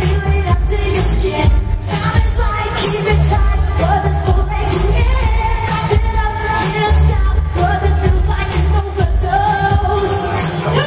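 Live dance-pop song: a woman singing over a heavy, steady electronic beat and synths, played loud through a concert PA.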